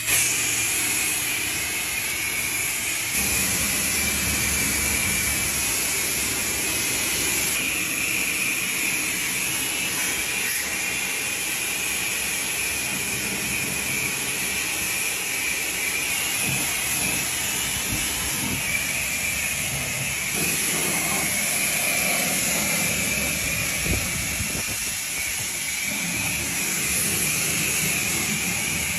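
Pressure washer running steadily, its high-pressure water spray hissing against a boat's hull, with a constant high whine over the hiss.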